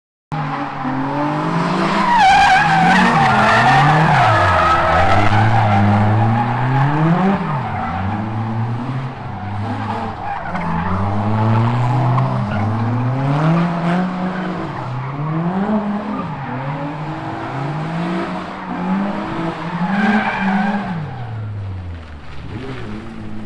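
V8 engine of a drift car revving up and down again and again as the car slides, with tyre squeal loudest in the first few seconds and again near the end.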